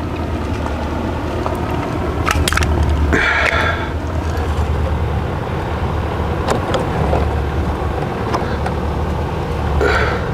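A steady low rumble, with a few light clicks and taps about two seconds in and later, and a short higher-pitched burst about three seconds in.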